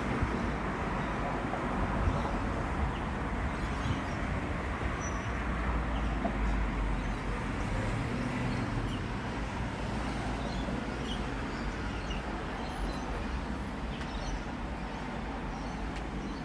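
Steady rain falling during a thunderstorm, with gusty wind rumbling on the microphone.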